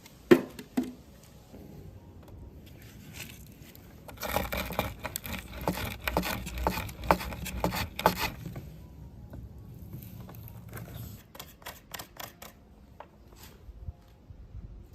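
Spiny Cherokee rose hips rubbed and rolled under a board to scrape off their prickles: a busy patter of scraping and clicking that is thickest a few seconds in, then thins to scattered clicks.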